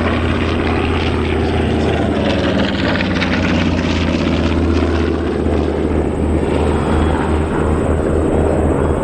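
Grumman TBM Avenger warbirds with Wright R-2600 Cyclone radial engines passing low down the show line: a loud, steady, deep propeller drone.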